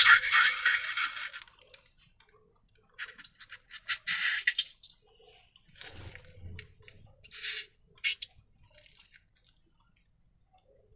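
Slime being squeezed and pulled by hand, giving sticky crackling and squishing sounds in several short bursts with quiet pauses between.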